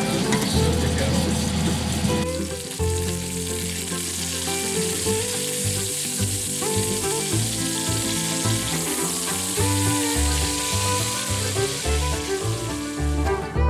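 Food frying in a hot pan, a steady sizzle throughout, with background music coming in underneath about two seconds in.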